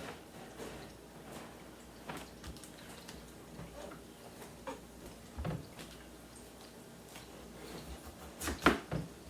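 Kitchen handling sounds: scattered light knocks and clatters of things being moved and set down, with a louder burst of knocks near the end.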